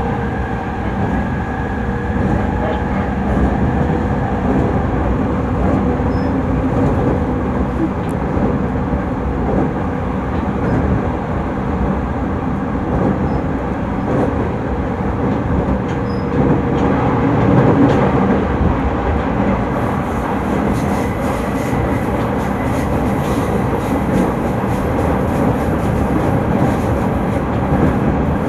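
A JR 209 series electric commuter train running at speed, heard from inside the car: a steady rumble of wheels on rail. A faint whine fades out in the first few seconds, and there is a little more hiss in the second half.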